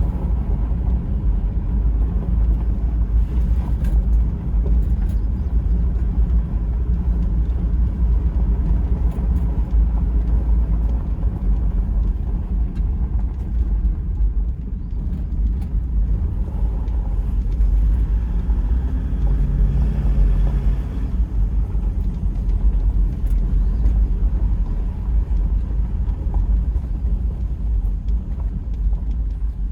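1999 Toyota Land Cruiser 100 Series turbo diesel running, a steady low rumble that eases briefly about halfway through.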